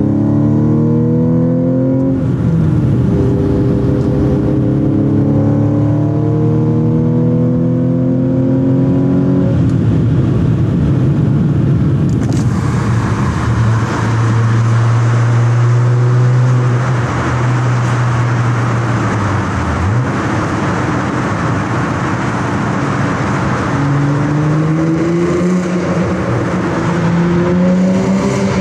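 Audi S4 B8's supercharged V6, with X-pipe exhaust and APR intake, heard from inside the cabin, pulling hard through the gears: the engine note climbs, breaks for an upshift about two and a half seconds in, and climbs again. After a lift-off it cruises steadily under a hiss of road and wind noise, then climbs once more near the end.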